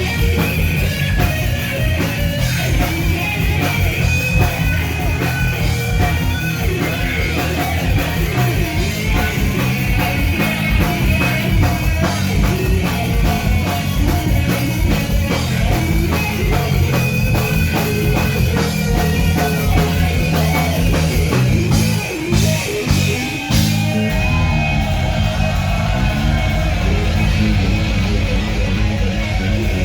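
Live rock band playing, with electric guitars, a drum kit and singing, the sound dropping briefly about three-quarters of the way through.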